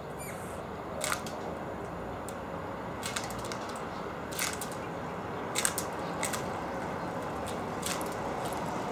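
Small birds pecking and cracking seeds at a feeder: scattered sharp clicks and taps, about six over several seconds, with a faint short chirp near the start, over a steady background hum.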